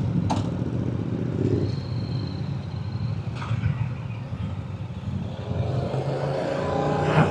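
Motorcycle engine running as the bike pulls away on the road, with wind and road noise. The engine pitch rises over the last couple of seconds as it accelerates.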